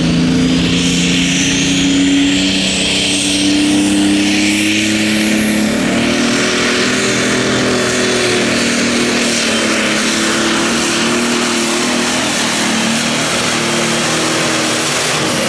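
Turbocharged diesel engine of a Light Pro Stock pulling tractor running hard under load. A high turbo whine rises in pitch over the first few seconds and then holds steady.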